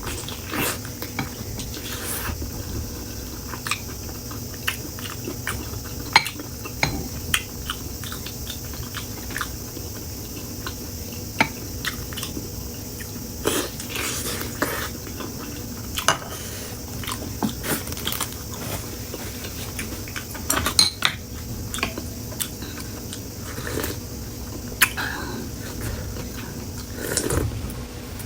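Someone eating from a bowl: utensils clinking and knocking against the dish at irregular intervals, with chewing in between, over a steady faint hiss.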